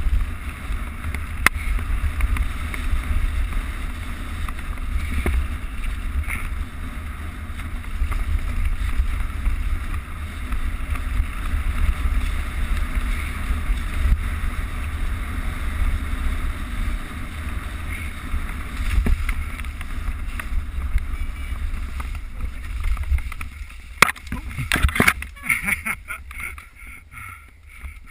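Mountain bike riding fast down a dirt trail: wind buffeting the helmet camera's microphone over steady tyre rumble. Near the end comes a run of sharp knocks and rattles as the bike jolts through a rut, a moment the rider nearly loses control.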